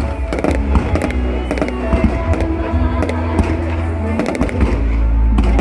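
Fireworks display: many sharp bangs and crackles over deep booms, with music playing alongside.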